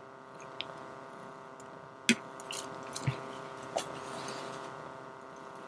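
Quiet room with a steady electrical hum and a few scattered light clicks and taps, the sharpest about two seconds in.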